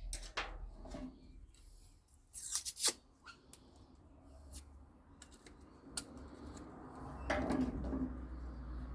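Hand-work noises from stripping scrap microwave parts: scattered clicks and scraping or tearing strokes, the loudest cluster a little over two seconds in and another rough scraping patch about seven seconds in, over a low steady hum.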